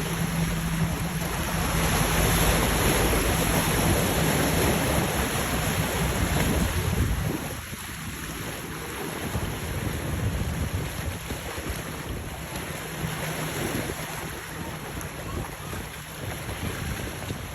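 Passing boats' motors running over wind buffeting the microphone and rushing water. A steady low engine drone is heard for the first seven seconds or so, then the sound drops a little quieter.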